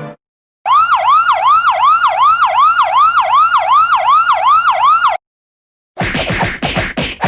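Emergency-vehicle siren in a fast yelp, its pitch sweeping up and down about two and a half times a second for four and a half seconds, then cutting off abruptly. After a short gap a different effect begins: a rapid run of noisy, downward-sweeping strokes, about four a second.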